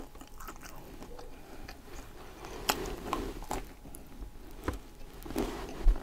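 A person biting into and chewing a piece of Philly cheesesteak: soft wet chewing and mouth sounds, with a few sharp clicks scattered through.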